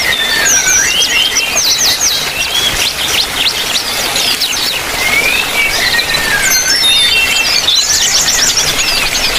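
Aviary birds, yellow-vented bulbuls and small birds, calling over one another: short gliding whistles and quick runs of high chirps, over a steady background hiss.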